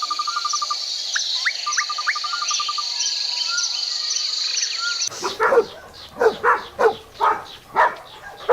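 Birds trilling and chirping over a steady high-pitched buzz. About five seconds in, this gives way abruptly to a dog barking in quick short yips, about three a second.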